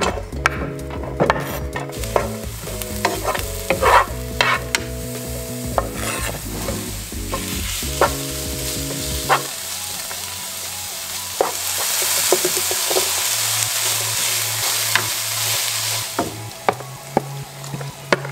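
Chopped onion and pork frying and sizzling in oil in a nonstick frying pan, stirred with a wooden spatula that scrapes and taps against the pan. The sizzle is loudest in the second half. Background music with steady bass notes plays underneath.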